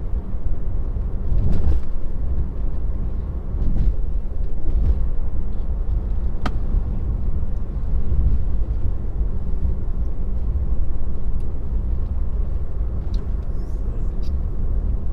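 Steady low road and tyre noise inside a moving Tesla's cabin, with a single sharp click about six and a half seconds in.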